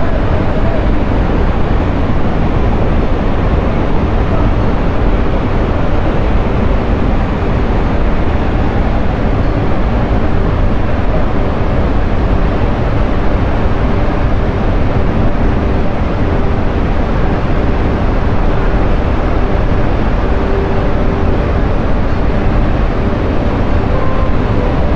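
Jog Falls in heavy-rain flood: a loud, steady rush of falling water with a deep low rumble, unbroken throughout.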